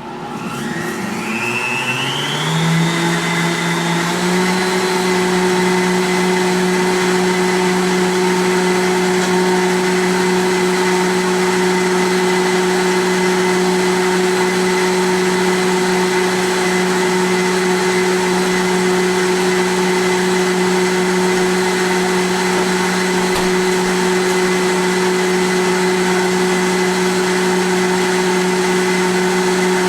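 Vitamix blender motor starting on low and rising in pitch over the first few seconds as it is turned up. It then runs steadily at high speed, whipping hot coffee and milk into foam.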